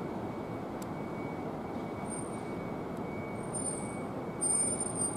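Keihan electric train running at the station platform: a steady, even running noise, with thin, very high-pitched squealing tones coming in about two seconds in and loudest near the end.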